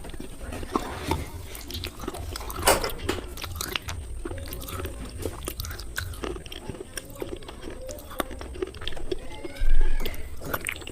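Slate pencils being bitten and chewed: a run of short, crisp crunches, with a sharper crack a little under three seconds in and a louder burst of crunching near the end.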